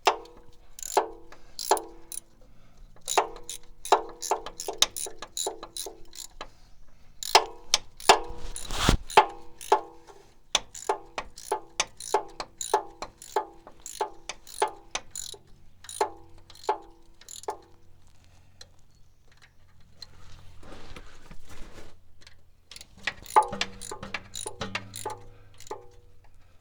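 Hand socket ratchet clicking in runs of evenly spaced clicks, about two to three a second, with pauses between runs, as the oil filter adapter bolts are tightened.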